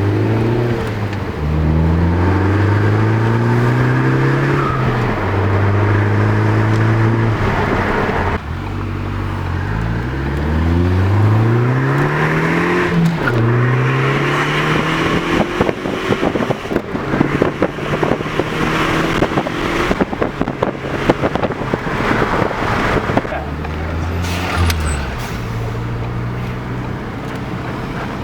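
Ford Focus ST's turbocharged 2.0-litre four-cylinder heard from inside the cabin, accelerating through the gears: the engine pitch climbs, drops at each upshift and holds steady while cruising, several times over. There is a rough, crackly stretch in the middle.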